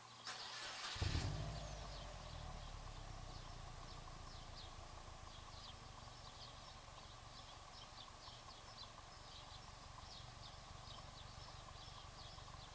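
A 2009 Subaru WRX's turbocharged 2.5-litre flat-four is cranked by the starter, catches about a second in, and then idles steadily with a low, fast pulse through an aftermarket catback exhaust. Birds chirp faintly throughout.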